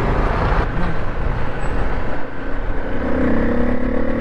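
Road traffic and wind noise heard from a moving motorcycle, with engines running. About three seconds in, a steady droning tone comes in and holds.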